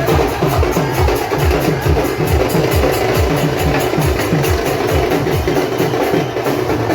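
Dhol-tasha drumming: deep dhol strokes repeating about three times a second over a dense, continuous din.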